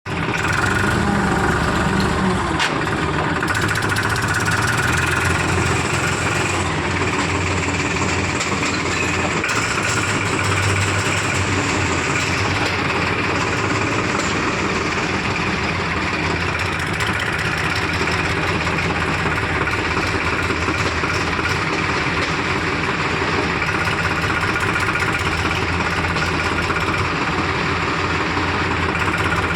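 Diesel engines of a backhoe loader and farm tractors running steadily with a continuous low hum.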